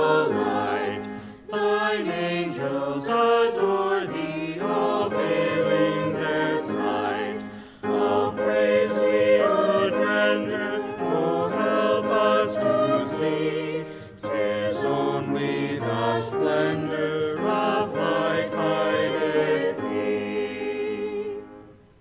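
Small group of voices singing a hymn in unison phrases with instrumental accompaniment, with short breaths between lines, and the final chord fading out just before the end.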